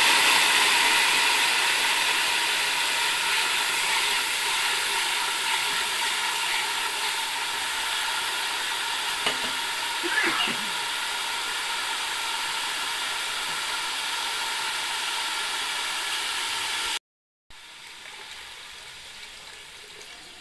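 Sliced onions sizzling as they fry in a steel pot, a steady hiss that slowly eases, with a few short knocks of the slotted spoon against the pot about halfway through. Near the end, after a brief cut, a quieter splash of boiled jaggery water being poured in.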